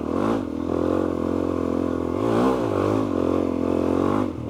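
Suzuki DR-Z400E's single-cylinder four-stroke engine running at low speed under a rider, with short rises in revs near the start, about two seconds in, and near the end.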